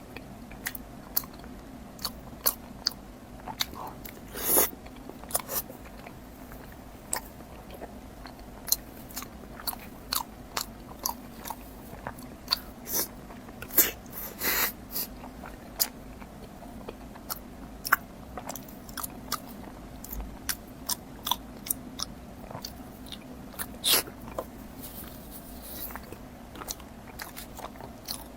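Close-miked eating: a person biting and chewing, with many irregular crisp clicks and smacks and a few louder bites.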